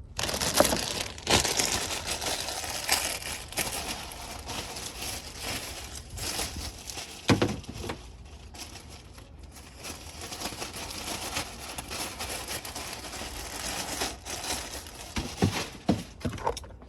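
Continuous crinkling and rustling handling noise, with scattered sharp knocks; the loudest knock comes about seven seconds in.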